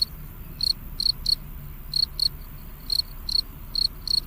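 Cricket chirping: short, high chirps, often in pairs, about two a second.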